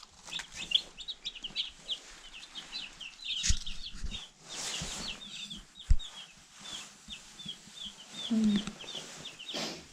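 A brood of young meat chicks peeping without pause, a stream of short, high chirps several a second. A couple of low thuds sound about 3.5 and 6 seconds in.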